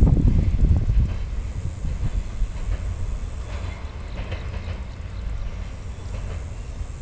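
Double-stack intermodal freight cars rolling across a steel girder bridge: a steady low rumble with wheel clickety-clack, a little louder in the first second.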